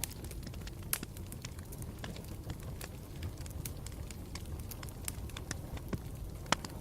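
Campfire burning with a steady low rumble and irregular sharp crackles and pops of the burning wood, two louder pops about a second in and near the end.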